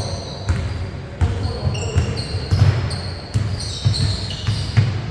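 Basketballs bouncing on a gym floor, an irregular run of thuds about two a second, with short high squeaks of sneakers on the court and voices echoing in the hall.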